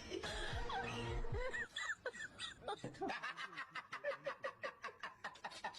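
People snickering and giggling in quick, breathy bursts, about four or five a second, after a short noisier stretch at the start.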